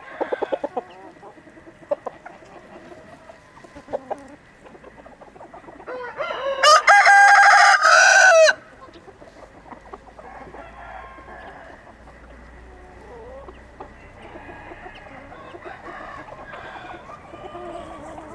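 Rooster crowing once, loud, for about two and a half seconds starting about six seconds in, with hens clucking softly before and after. A few short sharp sounds come in the first few seconds.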